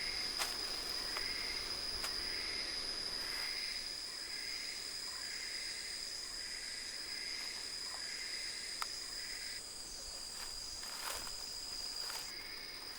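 Insects in the forest: one steady high-pitched drone, with a second insect chirping in a regular pulse a little under twice a second that stops about two-thirds of the way through and starts again near the end.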